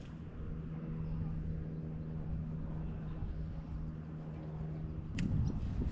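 A motor hums at one steady pitch, then stops with a sharp click about five seconds in, followed by a brief low rumble.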